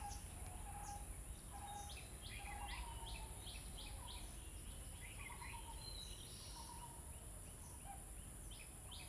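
Birds chirping and calling, many short repeated notes, faint over steady background noise.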